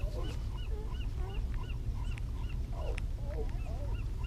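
Birds calling: a short rise-and-fall note repeated about twice a second, with lower wavering calls scattered among them, over a steady low rumble.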